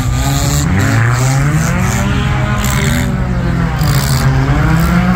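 Several four-cylinder race cars' engines revving and easing off together, their pitches rising and falling over one another.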